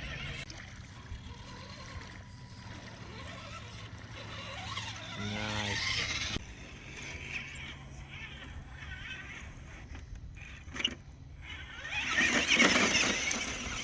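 Scale RC crawler truck driving over rough ground: its small brushed electric motor and gearbox hum steadily, and a louder rough scraping burst comes near the end.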